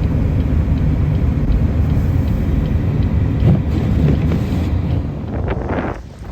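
Blizzard wind buffeting the microphone: a heavy low rumble that eases near the end.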